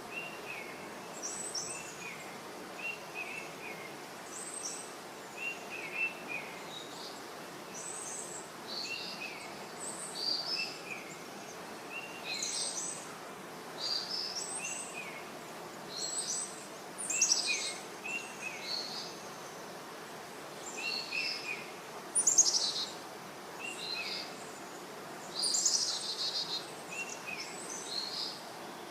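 Birds chirping over a steady outdoor hiss: a short falling call of two or three notes repeats every couple of seconds, mixed with higher, brighter chirps.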